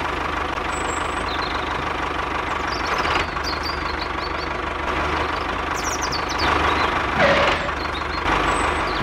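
Steady mechanical running noise like an engine at idle, with a few faint high chirps over it.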